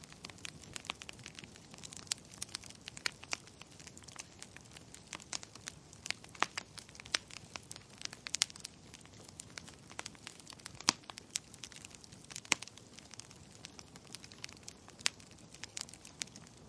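Wood fire in a fireplace crackling: irregular sharp pops and snaps, some much louder than others, over a soft steady hiss.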